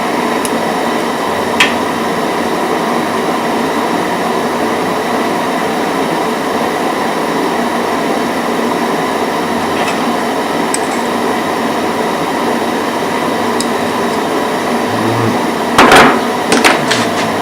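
Steady hum and hiss of workshop background noise, with a few sharp knocks near the end, like a part or tool being put down on a bench.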